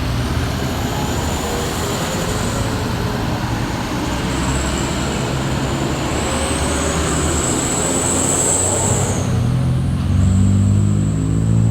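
Heavily loaded truck's diesel engine pulling slowly at low revs, with a high whine over it for much of the time; near the end the engine revs up and gets louder.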